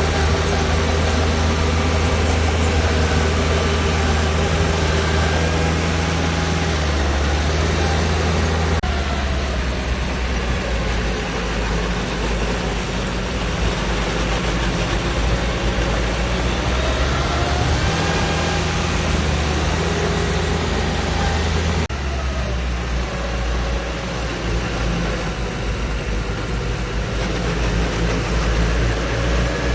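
Heavy diesel engine of earthmoving machinery running, its pitch rising and falling now and then. The sound changes abruptly twice, about a third of the way in and again about three-quarters through.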